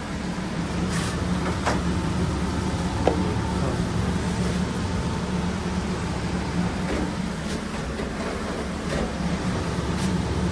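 Steady mechanical hum of food-truck kitchen machinery, such as the extractor fan, with a few light clicks and clatters of utensils scattered through it.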